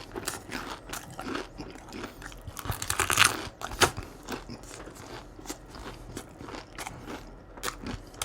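Close-miked crunching and chewing of crispy fried crab rangoons (fried wontons). There are many sharp crackling crunches, loudest about three seconds in.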